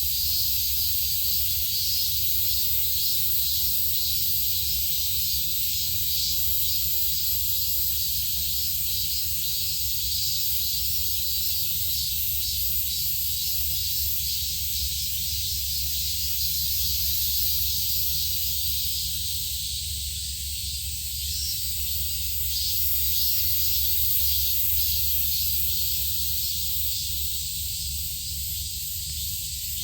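Steady high-pitched insect chorus, a dense hiss with fine rapid pulsing, over a low steady rumble.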